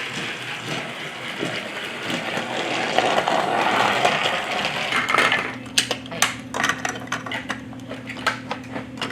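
Hard plastic toy pieces clicking and clattering as they are handled, a quick run of sharp knocks over a steady low hum in the second half. Before that, a dense rushing noise.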